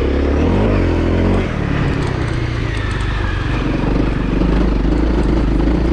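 Honda CRF250L's single-cylinder four-stroke engine running under load at low revs, its pitch shifting up and down for about the first second and a half as the throttle changes, then holding steady.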